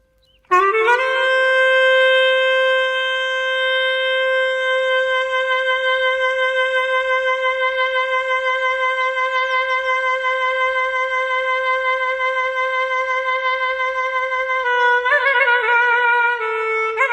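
Clarinet holding one long note for about fourteen seconds with a slight pulsing vibrato, then breaking into a short ornamented phrase of quick, bending notes near the end.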